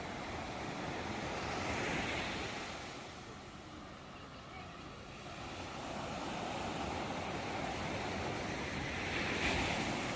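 Ocean waves breaking and washing ashore in a steady rush of surf. The surf swells about two seconds in and again near the end, easing off in between.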